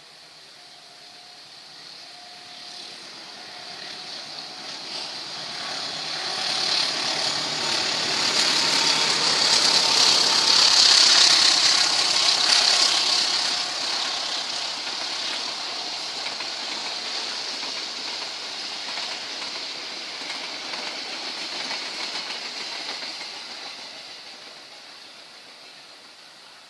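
Diesel-hauled passenger train passing at speed: engine and wheel noise swell to a peak as the locomotive goes by about ten seconds in, then the coaches roll past steadily and fade away near the end.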